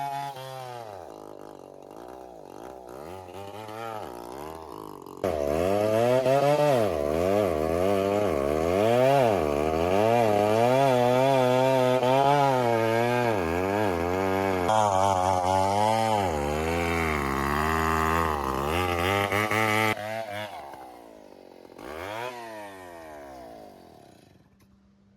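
Two-stroke chainsaw running and cutting, its pitch rising and falling as it bogs in the wood and revs again. It starts softer, then comes in loud about five seconds in and stops near the end, with one short rev afterwards before fading out.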